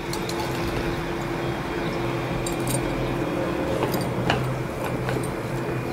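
Paneer cubes sizzling as they fry in hot butter and oil in a nonstick kadai, with a few light taps of a wooden spatula. A steady low hum runs underneath.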